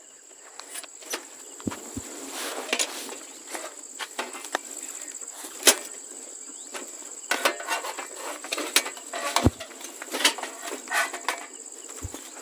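Night insects trilling steadily in a high, thin tone, with scattered clicks and knocks of camping gear being handled, the sharpest about halfway through and near the end.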